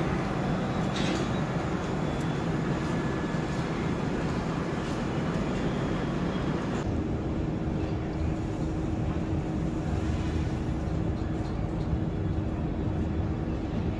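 Passenger train pulling out of a station, heard from an open coach door: a steady rumble of wheels on rails with a low, even hum. The higher hiss drops away suddenly about seven seconds in.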